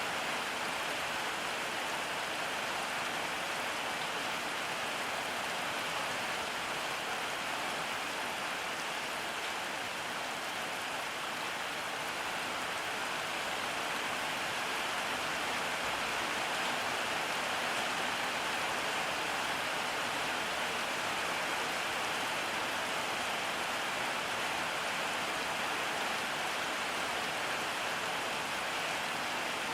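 Steady rain falling on surfaces, an even hiss of many drops with no letup or thunder.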